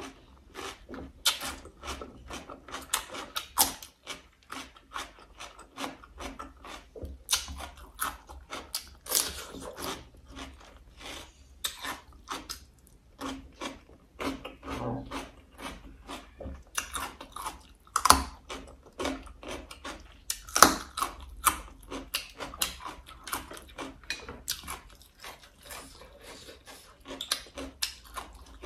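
A person chewing food close to the microphone: a continuous run of short, sharp chewing and biting crunches, with two louder ones past the middle.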